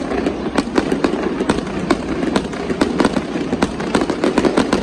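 Fireworks display going off: a rapid, dense run of sharp bangs and crackles, several a second, over a steady low rumble.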